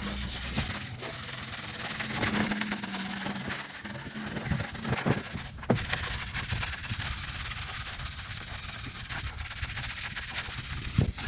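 Soft kitchen sponge scrubbing a dry guadua bamboo pole, a steady rubbing hiss as the fuzz is wiped off its surface.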